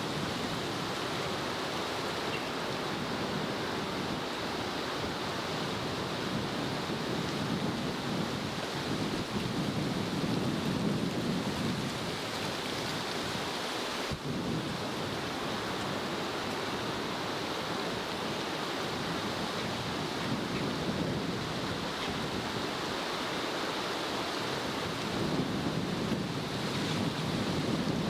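Wind blowing on the microphone, a steady rush that swells in gusts about ten seconds in and again near the end.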